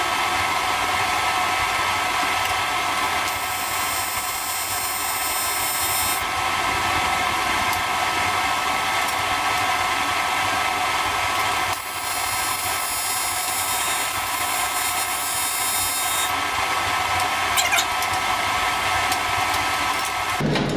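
AC TIG welding arc on aluminium tube, a steady harsh buzz held for long stretches with a brief break about halfway, cutting off suddenly near the end as the arc is stopped. The welder is burning holes through the thin tube rather than getting good penetration.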